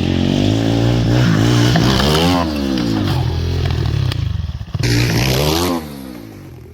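Dirt bike engine revving, its pitch climbing and falling twice as the throttle is opened and closed, then dropping away much quieter near the end.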